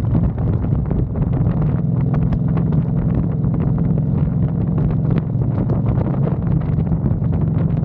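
Honda Fury motorcycle's V-twin engine running at a steady cruise, with wind noise buffeting the microphone.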